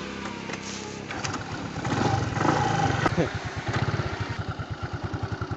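Small scooter engine running, revved up about two seconds in and then settling back to an idle with a slow, even putter.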